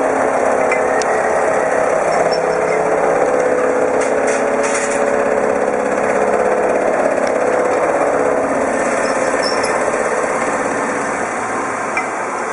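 Metal-turning lathe running steadily, a continuous machine hum with a few faint clicks.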